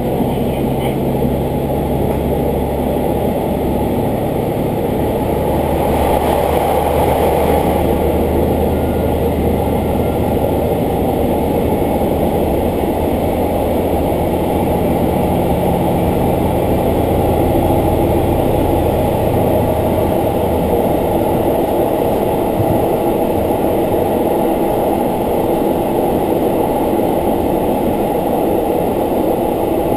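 Interior sound of a diesel railcar on the move: steady engine hum under the rumble of wheels on the rails. The low engine note fades about two-thirds of the way through, leaving the running noise of the wheels and carriage.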